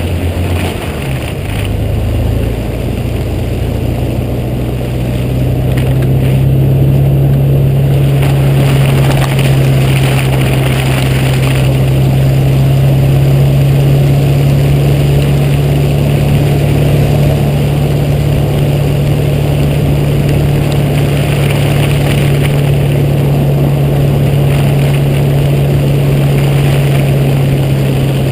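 Jeep Cherokee XJ engine driving with a steady low drone over continuous road and tyre noise; the engine note steps up in pitch about a second in and holds steady from about five seconds on, a little louder.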